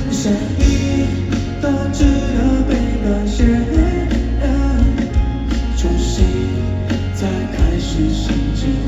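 Live pop band music with guitar, bass and a steady drum beat.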